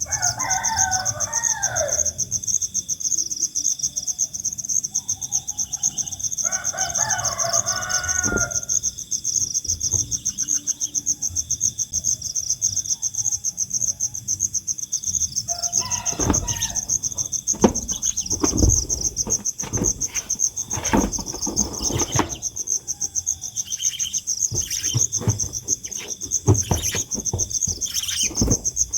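Steady high chirring of insects throughout, with two crowing calls of about two seconds each, one at the start and one about seven seconds in. From about halfway on come a run of irregular knocks and rustles.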